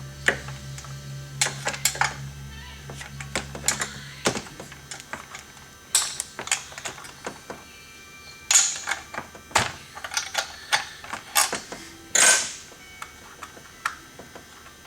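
Irregular sharp clicks, taps and metallic clatter of tools and chainsaw parts being handled, some in quick clusters. A low hum stops about four seconds in.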